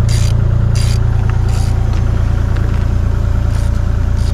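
Kubota excavator's diesel engine running steadily at idle. Short hissing bursts come about every 0.7 s in the first two seconds and again near the end.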